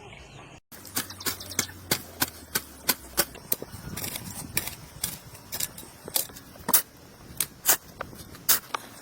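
A long run of sharp knocks or taps, irregular at about two to three a second, starting just after a brief dropout.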